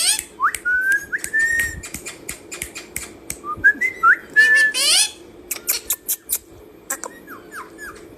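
A pet bird whistling short rising notes, mixed with high chirps and sharp clicks.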